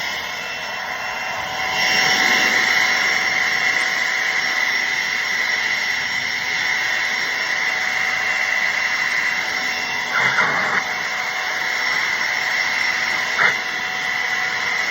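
Snow blower running steadily with a high whine over its motor noise. It gets louder about two seconds in, with two brief surges about ten and thirteen seconds in.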